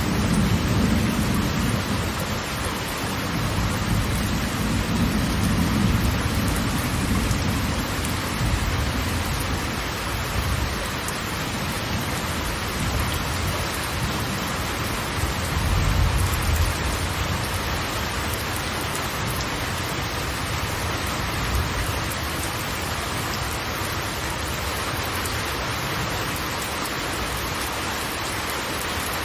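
Waterfall: steady rushing of falling water, with a deep rumble that swells a few times.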